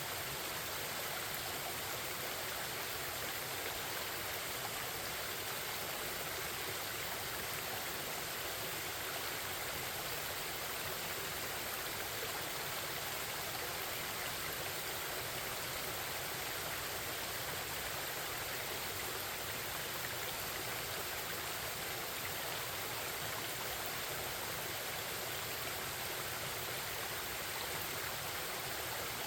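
A forest stream running over rocks, a steady, unbroken rush of babbling water.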